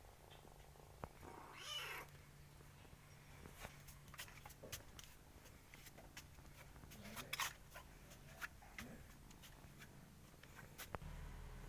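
Kitten purring steadily and quietly, with scattered small clicks and taps and a brief louder noise about two seconds in.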